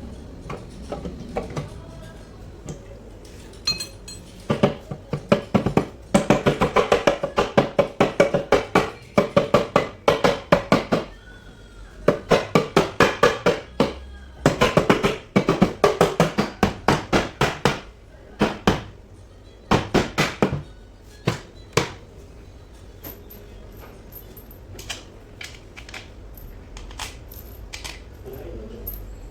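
Rapid metallic clicking and tapping in long bursts of several strikes a second, each strike ringing briefly, from tools or parts knocking on metal, thinning to scattered clicks near the end.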